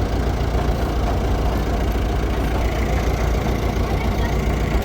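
Engine idling steadily with a deep low rumble, which drops away at the very end.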